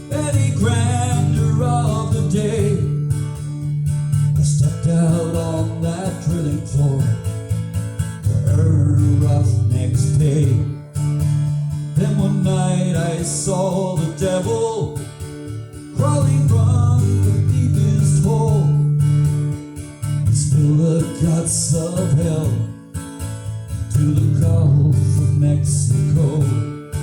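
Live country song: a singer's voice in phrases over guitar accompaniment.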